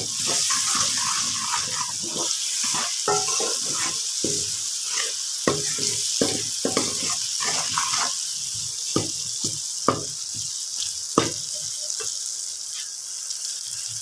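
Onion-tomato masala with ground spices sizzling in oil in an aluminium pot: a steady hiss, while a metal spoon stirs it with irregular scrapes and knocks against the pot.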